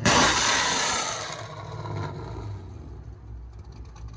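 Straight-piped V8 of a 2012 Chevrolet Camaro SS with long tube headers, high-flow cats and an X-pipe, revved sharply at the start, the revs falling away over about a second and a half before it settles to a steady idle.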